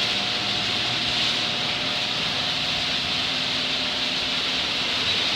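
LiftMaster chain-drive and Genie screw-drive garage door openers running together, raising their doors: a steady motor hum with an even hiss.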